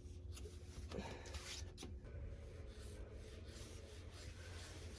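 Scissors cutting through wet hair: faint snips and rubbing, with a couple of sharper clicks about one and two seconds in, over a low steady hum.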